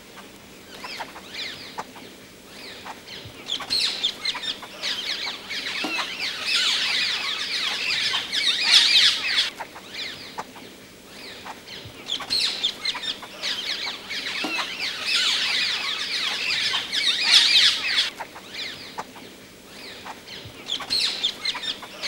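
Harsh, chattering bird calls in rapid repeated notes. They come in two long bouts, one beginning about three seconds in and another about twelve seconds in, with scattered calls between.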